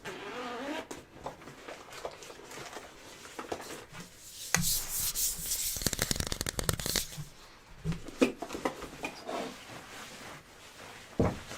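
Rubbing and scratching noises with scattered knocks, densest and loudest for about two and a half seconds midway.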